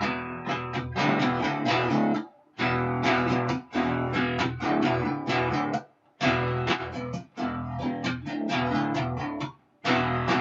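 Guitar in drop D tuning playing a fast riff on the low strings, alternating open strings and the second fret, then strumming the second-fret chord in quick repeated strokes. The playing stops briefly three times, about two and a half, six and nine and a half seconds in.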